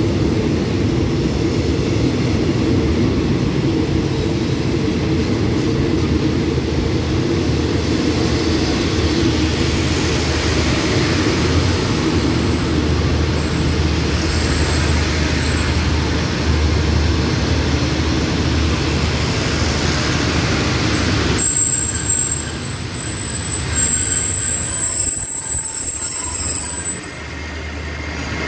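Passenger coaches of an express train rolling slowly along a station platform with a steady low rumble. In the last several seconds a high-pitched brake squeal sets in, and the rolling noise falls away as the train comes to a stop.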